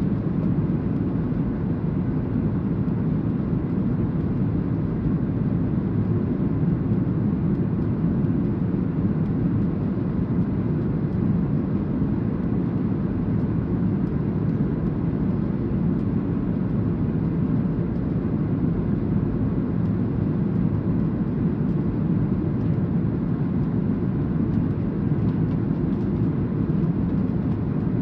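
Boeing 737-800 airliner noise: a steady low rumble that holds level, with no rise, fall or sudden sounds.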